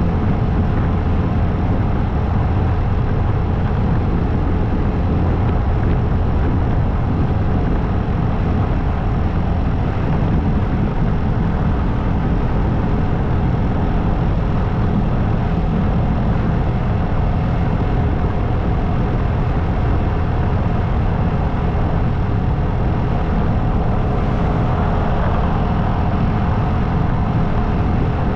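Motorcycle engine running at a steady cruise with constant wind and road noise, no change in speed.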